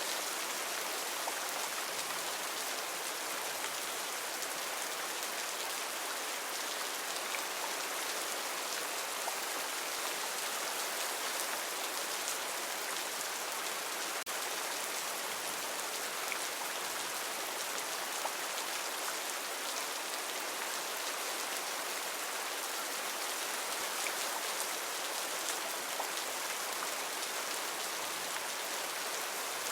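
Heavy rain falling steadily: an even hiss with a dense patter of drops.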